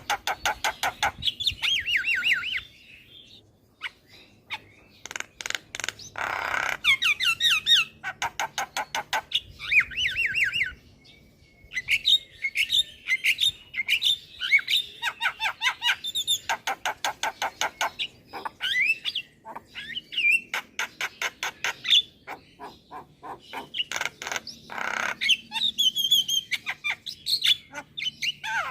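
Javan myna chattering and squawking: fast runs of harsh repeated notes mixed with short whistles, with two brief pauses, about three seconds in and about eleven seconds in.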